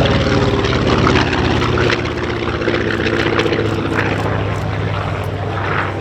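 Grumman F6F-5 Hellcat's 18-cylinder Pratt & Whitney R-2800 radial engine and propeller in a low pass. The engine note falls in pitch as the plane goes by and gets quieter about two seconds in.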